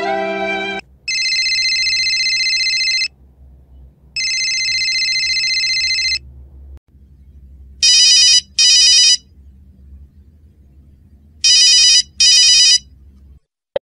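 Telephone ringing: two long, steady electronic tones of about two seconds each, then two pairs of short trilling rings, a ringtone sound effect.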